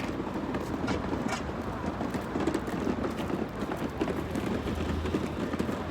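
Steady vehicle and road noise, with a few short clicks in the first second and a half.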